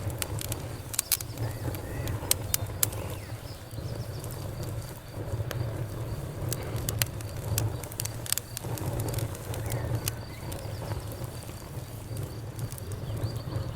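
Campfire crackling, with irregular sharp pops over a low steady rumble, the loudest pops a second or two in. A faint steady insect trill sits high in the background.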